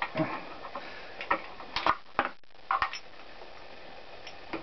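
Metal gearbox parts of a motorcycle engine clinking and knocking as they are handled, a string of irregular sharp clicks.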